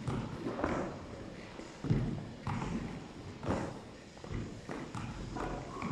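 A series of irregular thuds, a few to each second or so, with faint movement noise between them.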